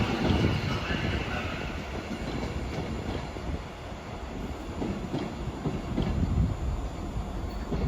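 A train running through a station, a rumbling rail noise that eases off about halfway and builds again near the end.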